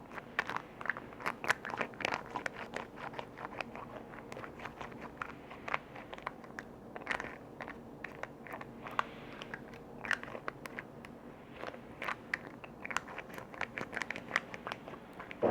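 Close-miked tapping and clicking on container lids: a dense, irregular run of sharp clicks, easing off briefly a couple of times.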